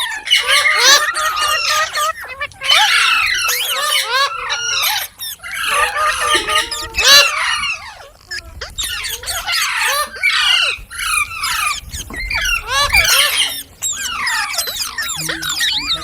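Several green parrots calling at once, a dense chatter of short, overlapping squawks and screeches that comes in bursts with brief lulls.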